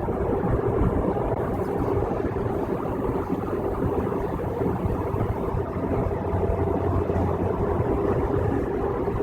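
Steady road noise inside a car's cabin at highway speed: tyres on the road and the engine's drone, with a constant low hum.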